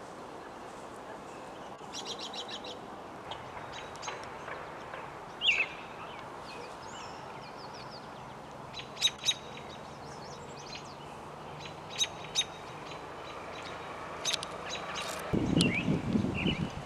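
Wild songbirds chirping and calling in short, sharp notes, with a quick trill about two seconds in. A low rumble comes in near the end.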